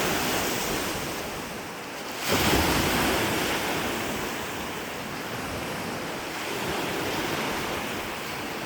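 Rushing surf with wind on the microphone; the rush eases, then swells again sharply about two seconds in.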